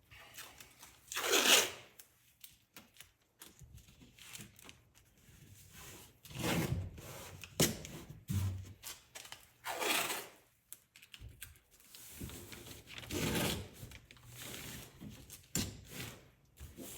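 Scattered rustling, rubbing and tearing sounds of hands working with tape and parts: short irregular rasps and swishes, the loudest about a second in and about ten seconds in.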